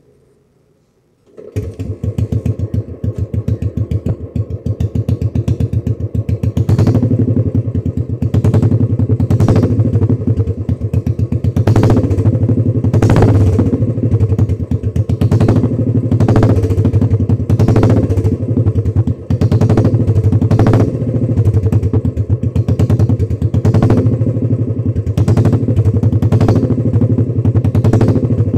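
Royal Enfield Classic 350's single-cylinder engine running through its exhaust with a steady, loud thump. It comes in abruptly about a second and a half in, and from about seven seconds in there are sharp cracks roughly once a second.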